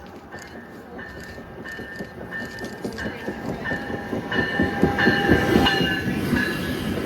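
A train passing, growing louder over the first five seconds, with rapid clicking of wheels over the rails and a thin, steady high-pitched ringing tone above it.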